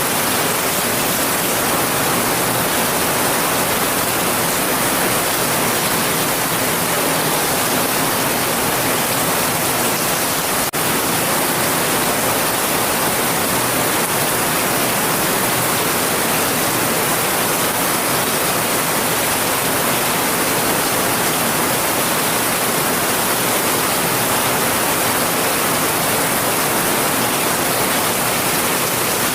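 Heavy rain falling steadily in an even hiss, with no separate drops standing out. About eleven seconds in there is a brief dropout with a faint click.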